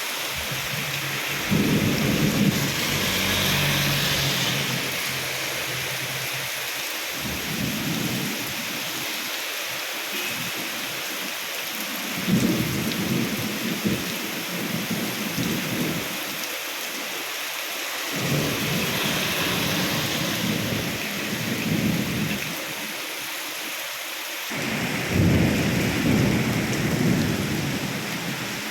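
Steady rain falling, a continuous hiss, with six low rumbles of a few seconds each.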